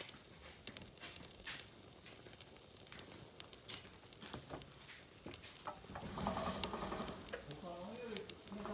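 Wood fire crackling, with scattered sharp pops over a faint hiss. From about six seconds in, a louder voice with a wavering pitch joins the crackling.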